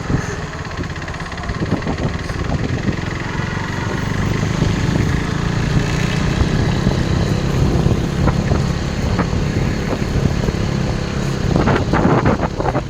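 KTM RC 390's single-cylinder engine running under way, heard with wind noise on the rider's microphone. The engine note swells a couple of seconds in and then holds steady, with a burst of wind buffeting near the end.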